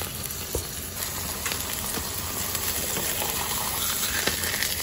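Frozen mushroom-and-beef burger patties sizzling steadily in oil in a non-stick frying pan, with a few brief clicks.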